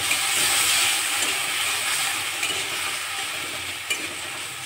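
Dried shrimp sizzling in hot mustard oil with onion, tomato and chili in a metal wok while a metal spatula stirs and scrapes through them, with a few light spatula clicks. The sizzle is loudest at first and eases slightly.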